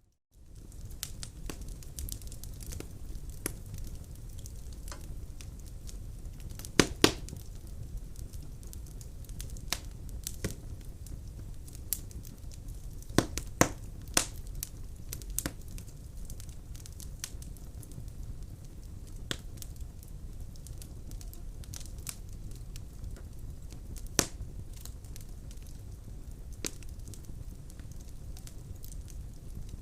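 Wood fire burning in a fireplace: a steady low rumble of flames with irregular crackles and pops of burning logs, a few sharp louder snaps standing out, after a momentary dropout at the very start.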